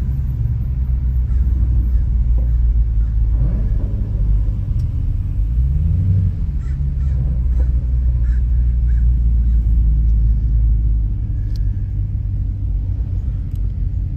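Dodge Challenger Scat Pack's 6.4-litre HEMI V8 rumbling while driving, with the engine note rising briefly about five seconds in and settling back.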